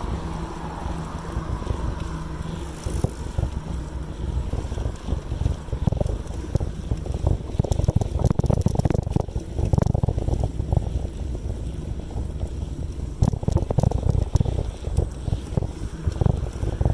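Wind buffeting the microphone of a camera carried on a moving bicycle, a low rumble that gusts louder and softer.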